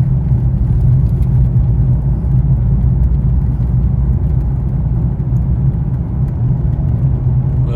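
Steady low drone of a car's engine and tyres on the road, heard from inside the moving car.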